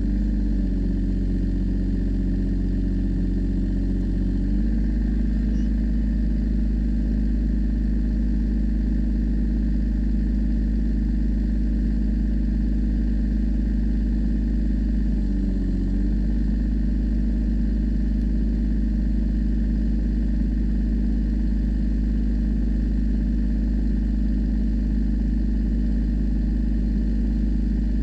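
Tractor engine running steadily; its speed steps up slightly about four seconds in, and past the middle it dips briefly and recovers.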